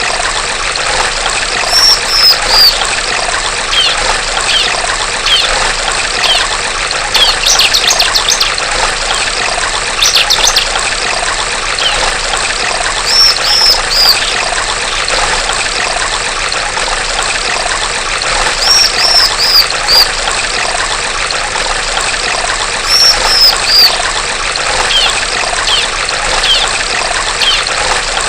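Female bar-winged prinia (ciblek) calling over a steady trickling stream. Its calls come as clusters of three high arched notes every few seconds, with bursts of rapid chatter and short falling chips in between.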